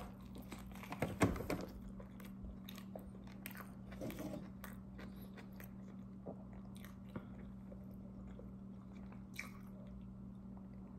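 Close-miked chewing and biting into a fish sandwich: wet mouth clicks and smacks, loudest about a second in, then scattered lighter chews. A steady low hum runs underneath.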